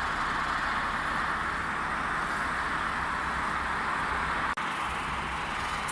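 2013 Toyota Corolla 1.6's four-cylinder engine idling steadily in Park just after starting, heard from inside the cabin as an even hiss over a low hum. It is running normally on freshly changed oil, with the oil pressure light out.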